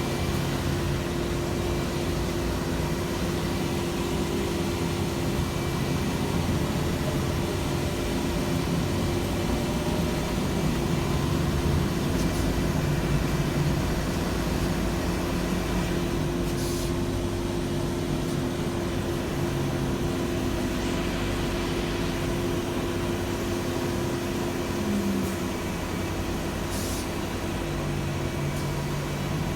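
Scania city bus under way: a steady engine and drivetrain drone with road rumble. The engine note shifts slightly near the end.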